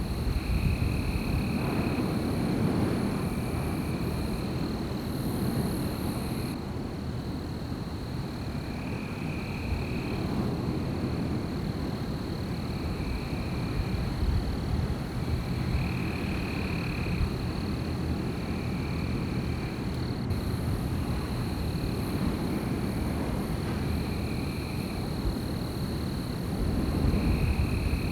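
Wind blowing through a forest, a low rushing that swells and eases in gusts. Over it runs a steady high-pitched thin tone, and a shorter, lower call repeats every two to three seconds.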